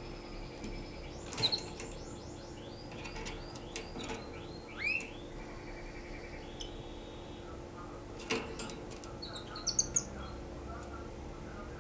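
Canary singing in broken phrases of rapid trills, repeated chirps and short rising whistles, with two sharp clicks, one about a second and a half in and one past the middle.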